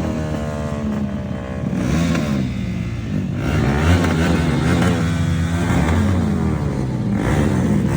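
Motorcycle engine revved repeatedly, its pitch rising and falling several times.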